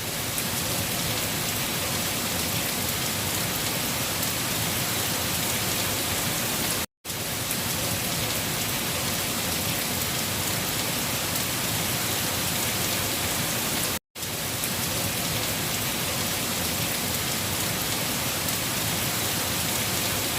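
Steady, heavy rain: a dense, even hiss of drops on a surface. It cuts to silence for a split second twice, about seven seconds apart.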